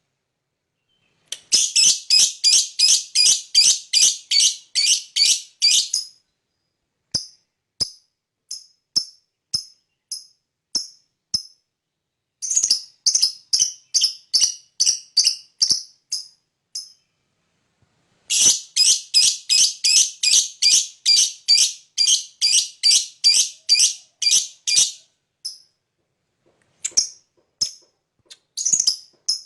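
Lovebird giving its long chattering 'ngekek' call: shrill chirps repeated rapidly, about four a second, in three runs of several seconds each, with slower single chirps between the runs.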